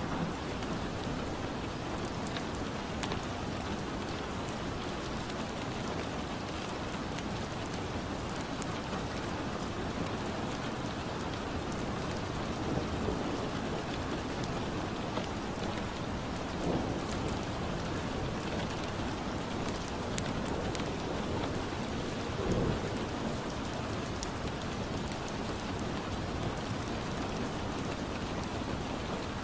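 Steady rain falling on a surface, a continuous even hiss, with scattered small crackles from a fireplace and a few brief low swells, the strongest about two-thirds of the way in.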